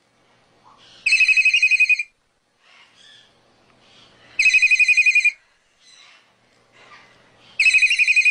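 Telephone ringing: a fast, trilling electronic ring in bursts of about a second, sounding three times at an even spacing of about three seconds.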